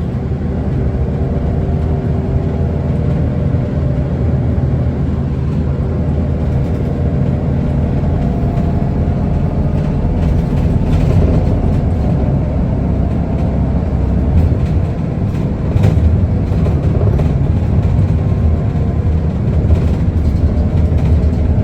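Interior running sound of an Isuzu Erga city bus: the diesel engine's steady drone under road and body rumble, its pitch drifting slightly as the engine speed changes.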